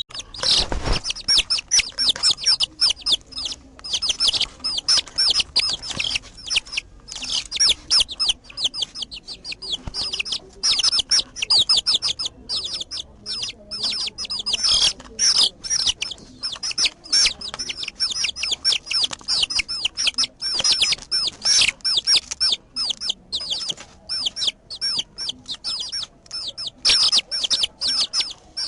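Birds chirping in a fast, continuous run of short, high chirps, several a second, with only brief pauses.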